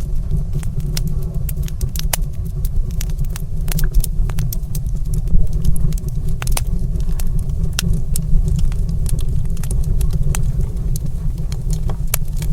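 Wood fire burning in a stone fireplace: a steady low roar under many sharp, irregular crackles and pops.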